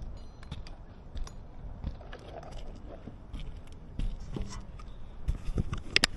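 Irregular taps, knocks and scrapes of hand work on a roof, with the sharpest, loudest knock near the end.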